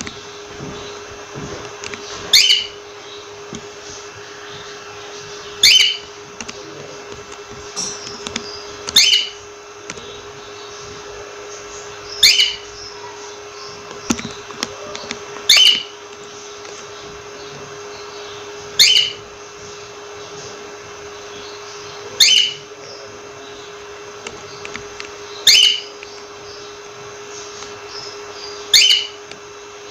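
Cockatiel calling: a short, loud call repeated about every three seconds, nine times, over a steady low hum.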